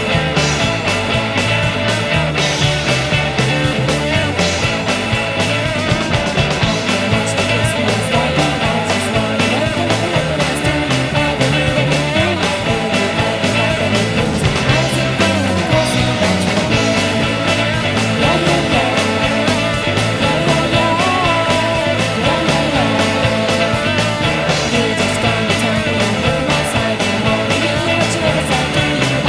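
Rock song recording: a band with guitars and drums playing at a steady, full level.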